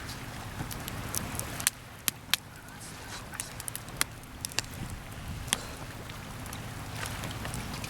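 Wood campfire crackling, with a scatter of sharp pops over the first five or so seconds, over a steady low rush of waves on the shore.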